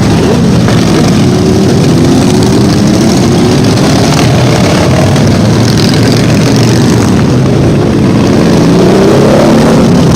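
Motorcycle engines running and revving, their pitch rising and falling several times over a loud, steady rush of noise.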